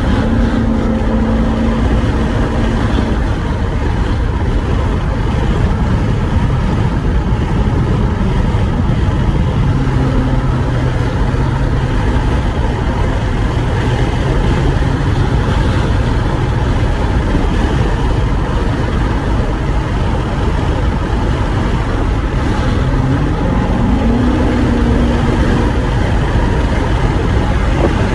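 Chevrolet Corvette C7's 6.2-litre V8 running while driving, its note holding, dropping lower, then rising about two-thirds of the way through, under heavy wind buffeting on the microphone.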